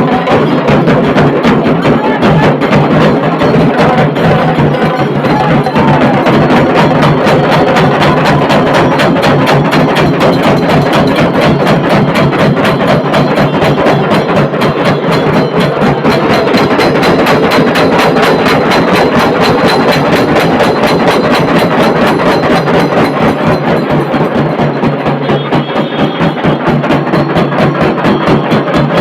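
Dhol tasha drumming: tasha drums struck with sticks in a fast, unbroken roll of strokes, with dhol drum beats underneath, loud throughout.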